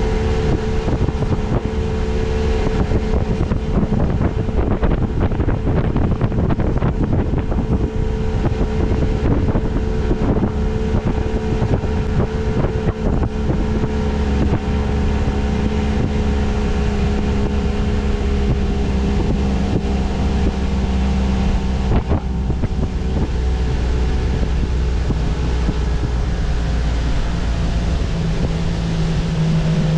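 Boat motor running steadily under way, with wind buffeting the microphone and water rushing past the hull. The engine note drops a little near the end.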